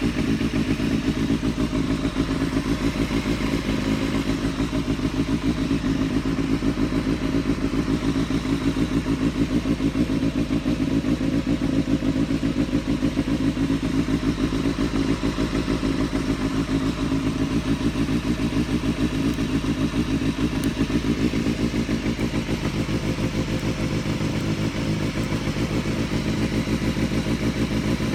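Suzuki Bandit 250's inline-four engine running steadily through an aftermarket Akrapovič muffler, held at an even speed without revving.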